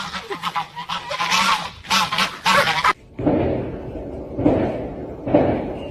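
Repeated honking animal calls, wavering in pitch, for about three seconds. Then a sudden change to a lower sound that swells and fades about once a second.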